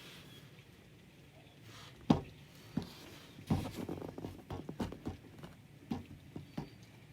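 A run of irregular soft thumps and knocks, the first and loudest about two seconds in, then a dozen or so smaller ones, unevenly spaced.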